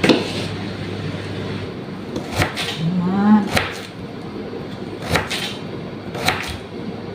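Kitchen knife chopping hard raw carrot on a cutting board: irregular sharp knocks, several of them coming in quick pairs.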